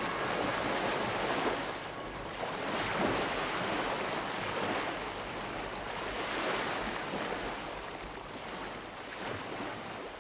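Sea waves washing and wind on the microphone, swelling and easing every second or two.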